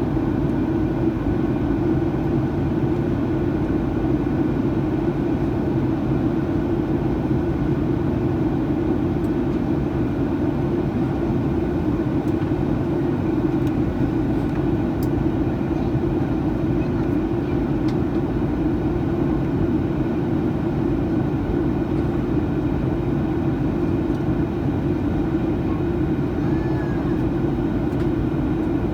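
Steady in-flight cabin noise of a Boeing 737-900ER: the drone of its CFM56-7B turbofan engines and airflow, with no change in level.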